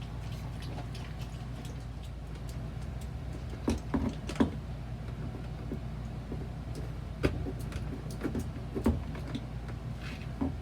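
Scattered sharp clicks and knocks of a screwdriver working the plastic retaining clips of an RV toilet's flush valve, a few at a time, over a steady low hum.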